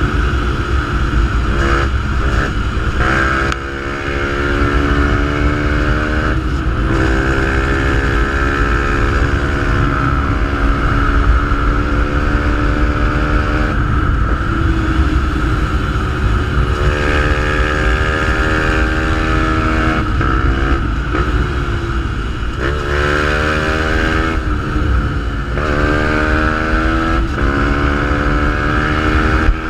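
Fantic 125 supermotard's single-cylinder engine through a GPR exhaust, ridden hard: the engine note climbs again and again as it pulls through the gears, dropping at each shift and sinking when the throttle is closed, before picking up once more.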